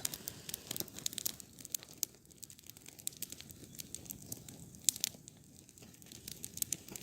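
Campfire crackling, with scattered sharp pops and snaps, a couple of louder ones about two and five seconds in.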